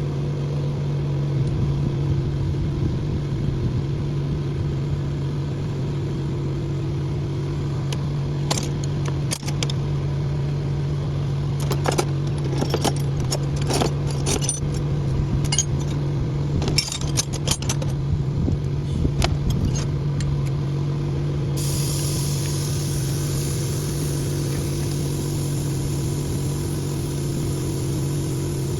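Engine idling steadily with an even low hum. Through the middle stretch it is joined by a run of short metallic clicks and clinks.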